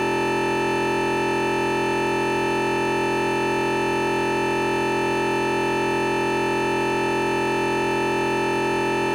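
A continuous, unchanging electronic beep made of many steady pitches at once, standing in for the recording's normal audio: a glitch where the Zoom sound dropped out.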